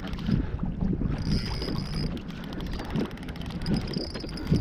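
Wind buffeting the microphone over water moving against a kayak hull, with scattered small knocks.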